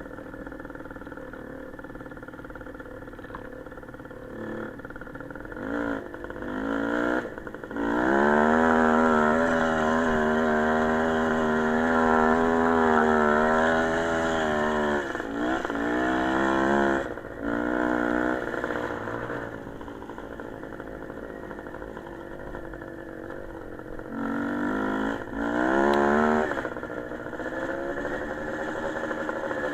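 Small motorcycle engine revving and running. Its pitch climbs about seven seconds in, holds high and steady for about six seconds, then falls away. Shorter revs follow in the middle and again near twenty-five seconds, with steadier, quieter running in between.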